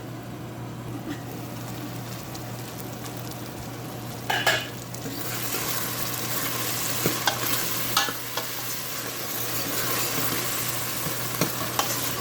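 Tomatoes and ginger-garlic paste sizzling in a pot as a spoon stirs them. There is a short scrape just after four seconds in, after which the sizzle grows louder, and a few sharp spoon clicks against the pot follow.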